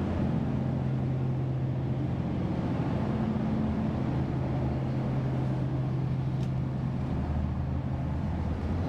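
Ferry's engines droning steadily as a low, even hum, heard from inside the passenger lounge.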